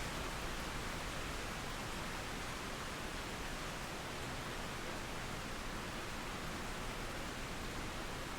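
Steady rain falling through forest trees, an even hiss with no change in level.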